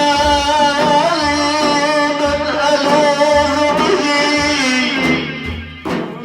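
Sufi devotional song: a long, steadily held note over regular low frame-drum beats, easing off near the end.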